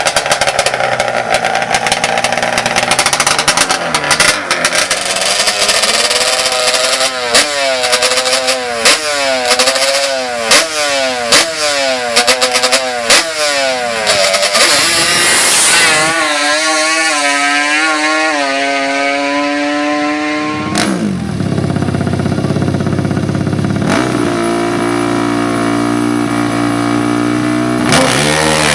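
Drag-racing ATV engines: an engine is revved in repeated blips, about one every second and a half, then pulls in one long steady climb in pitch as it accelerates. About three-quarters of the way in the sound changes suddenly to a steadier engine note.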